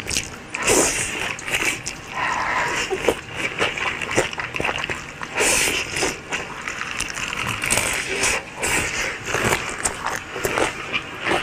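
Close-up chewing and biting of mango slices: a run of wet clicks and crunches from the mouth, with brief vocal sounds between.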